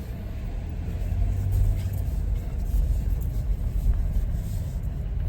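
Car running and rolling slowly forward, heard from inside the cabin: a steady low engine and road rumble that swells a little between one and two seconds in.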